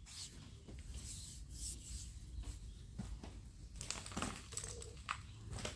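Faint handling sounds: light rubbing and a few small clicks, over a low steady hum.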